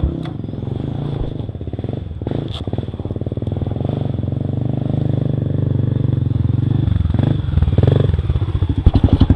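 Trail motorcycle engine running at low revs, with a few scattered knocks and clatters; its beat grows heavier and more pulsing near the end.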